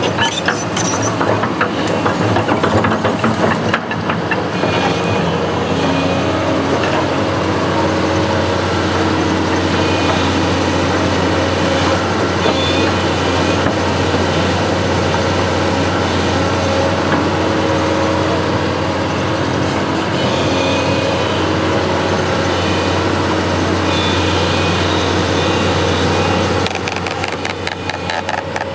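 Construction machine's engine running steadily with a deep hum. Near the end the note changes and a rapid clatter comes in.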